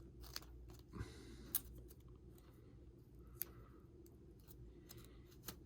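Faint scattered clicks and light taps of hands handling small parts, as adhesive strips are fitted to the back of a replacement iPhone 6 battery, over a low steady hum.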